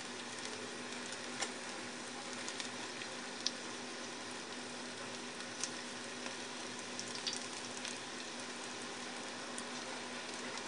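Panko-breaded pejerrey fillets sizzling steadily in hot oil in a disco pan, with a few light clicks scattered through.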